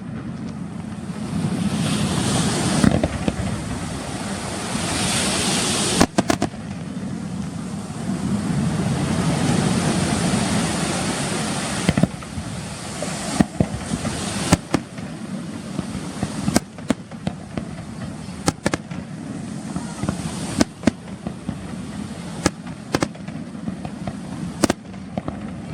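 An aerial fireworks display: shells bursting in a dozen or so sharp bangs, coming more often in the second half, over a continuous crackling hiss.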